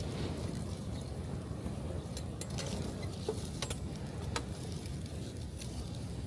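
Wood fire crackling, with a handful of sharp pops, over the steady low rush of waves breaking on the beach.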